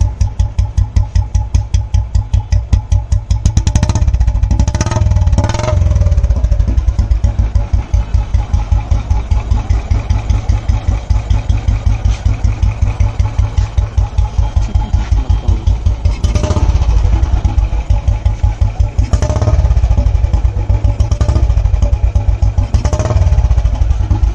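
Royal Enfield Machismo 350 single-cylinder four-stroke engine idling through a long Punjab exhaust with a steady 'dug dug' thump. A few short blips of throttle come about four, sixteen, nineteen and twenty-three seconds in.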